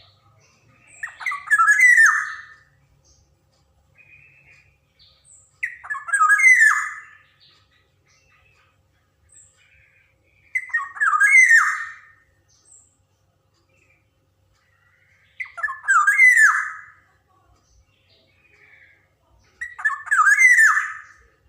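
Black-naped oriole calling: a harsh, scratchy phrase repeated five times, about every five seconds, each lasting about a second and a half.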